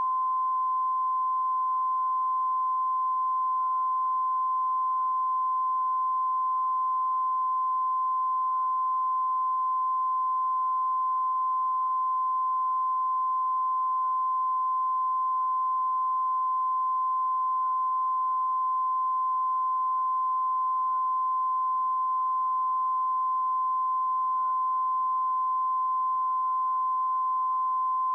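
Steady, unbroken test tone at one constant pitch and level, as a TV channel transmits when it has gone off air.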